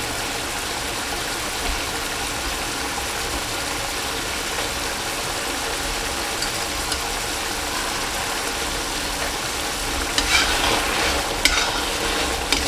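Chicken in a buttery tomato masala sizzling steadily in a kadhai over a high flame. About ten seconds in, a metal spatula starts stirring and scraping the pan, adding irregular scrapes and clinks.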